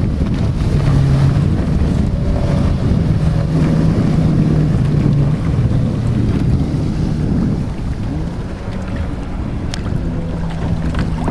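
Motorized watercraft engine running with a steady hum that shifts in pitch a few times, under heavy wind rumble on the microphone.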